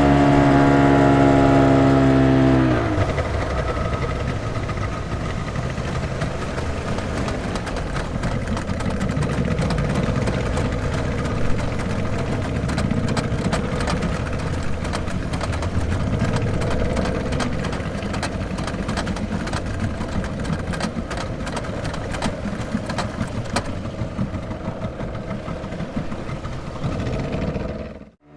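Speedboat engine running with a steady, strong tone that drops in pitch about two and a half seconds in as it slows. It then runs lower and rougher with a rapid ticking, and fades out just before the end.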